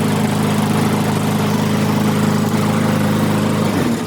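Lawn mower engine running steadily, then shut off near the end and dying away. It is running on a substitute spark plug fitted in place of a worn-out one.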